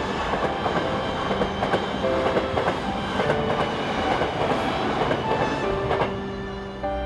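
Hankyu electric commuter train running past, wheels clicking over the rail joints with a steady rumble that eases slightly near the end.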